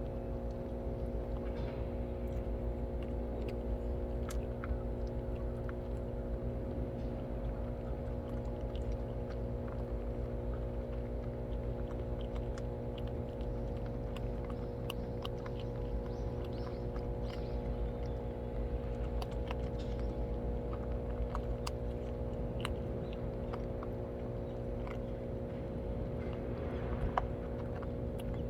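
Cats chewing their food, with scattered short crunching clicks, over a steady low electrical or mechanical hum.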